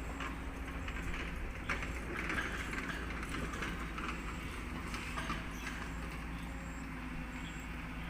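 An engine running steadily with a low hum, with a few faint knocks, about two seconds in and again near the middle.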